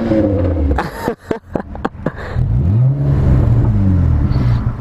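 A vehicle engine revved up and let off twice, its pitch climbing and falling each time, with a few sharp exhaust pops in the lull between the revs.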